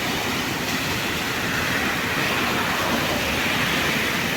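Steady, unbroken rumble and hiss of a moving vehicle.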